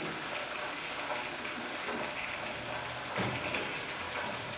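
Onion and spice paste sizzling steadily in ghee in a frying pan, with a soft knock about three seconds in.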